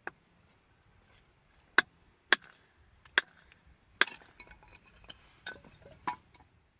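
A tool striking wood: a run of sharp knocks at uneven spacing, about seven blows in all.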